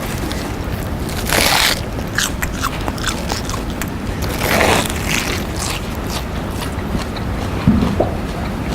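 Pringles potato crisps being crunched and chewed loudly, a run of small crackling crunches with two louder crunching bursts, about a second and a half in and again near the middle.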